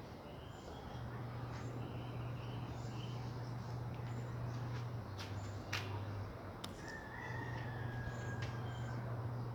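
Birds chirping and calling, with one drawn-out, slightly falling whistle about seven seconds in, over a steady hiss and a low hum.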